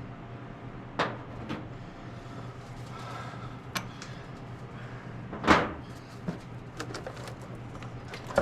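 Metal knocks and scrapes of hand tools and parts during the top-end teardown of a 1954 International R-110 engine: a few separate clanks, the loudest and longest about five and a half seconds in, over a steady low hum.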